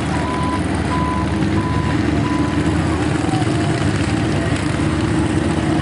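A heavy vehicle engine running steadily, with a reversing beeper sounding a regular series of beeps on one pitch that stops about two and a half seconds in.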